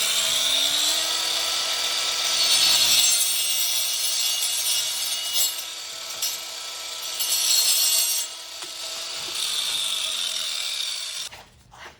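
Angle grinder fitted with a cutting blade spinning up about a second in and cutting through a tube, a steady motor whine under a harsh cutting noise. Near the end the motor winds down and the cutting noise stops.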